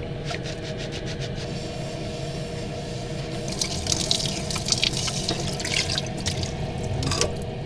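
Water running from a camping car's sink tap as dishes are rinsed, with a steady hum underneath. Brighter splashing comes in about halfway through, and the water stops shortly before the end.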